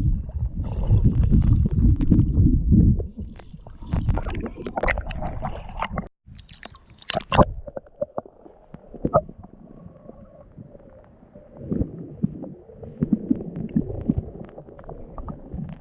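Muffled sea water heard through a camera held underwater: a heavy low churning and gurgling for the first few seconds, cutting off suddenly about six seconds in, then quieter clicks and knocks against the housing over a low murmur.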